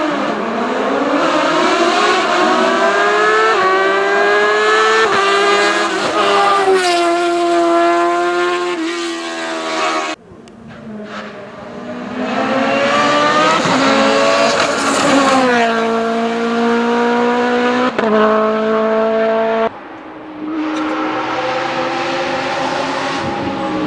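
Hill-climb racing cars accelerating hard at high revs, the engine note climbing and dropping back at each quick upshift. The sound breaks off abruptly about ten seconds in and again near twenty seconds, each time picking up on another car's run.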